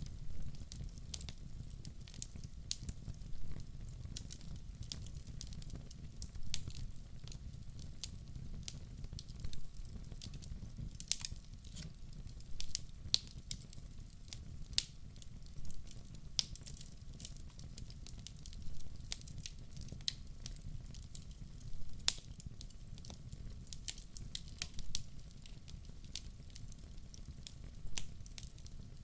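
Wood fire burning in a fireplace, crackling with irregular pops and a few sharper snaps over a low, steady rumble of the flames.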